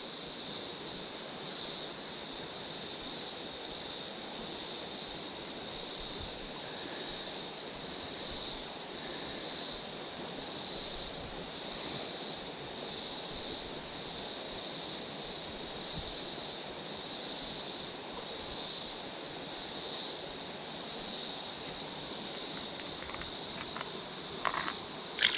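Steady summer insect chorus, swelling and fading about every second and a half, over the even wash of creek water.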